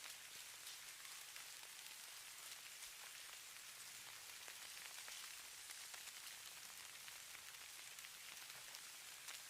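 Falling-snow ambience: a faint, steady hiss of fine precipitation pattering on a surface, dotted with many tiny scattered ticks.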